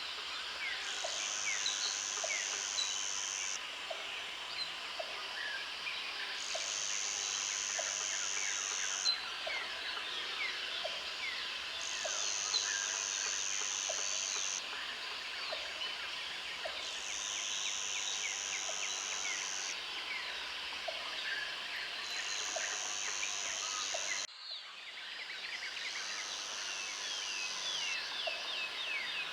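Outdoor chorus of many birds chirping and trilling, with a high, even buzz that comes and goes in stretches of two to three seconds every five seconds or so. The sound drops out briefly about 24 seconds in.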